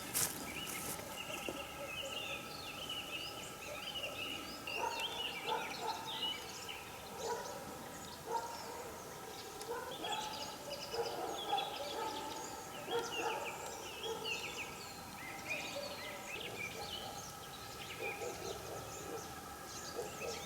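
Many birds calling at once: a dense, continuous chatter of short overlapping calls, some high and some lower, rising and falling in busyness.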